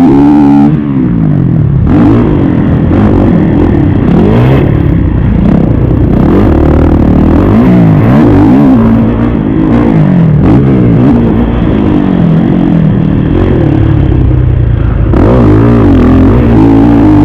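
Kawasaki KX450 motocross bike's single-cylinder four-stroke engine, loud and close, revving up and falling off again and again as the throttle is worked, its pitch climbing and dropping every second or so.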